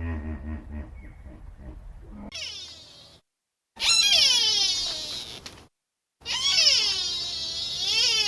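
Low grunting for about two seconds, then an animal's long, high, wailing calls, three in a row, each bending down and back up in pitch and cut apart by short dead silences.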